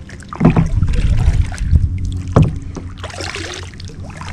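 Kayak paddling: water splashing and dripping from the paddle, with two dull knocks about two seconds apart.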